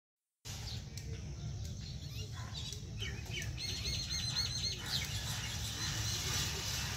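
Birds chirping, with a quick run of repeated high chirps lasting about a second near the middle, over a steady low rumble.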